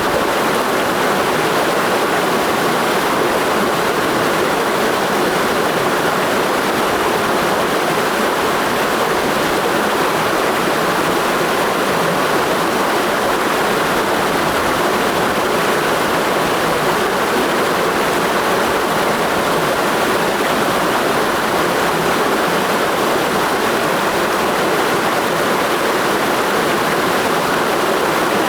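Clear mountain stream flowing in a steady, unbroken rush of water, fuller in the middle range than in the deep lows.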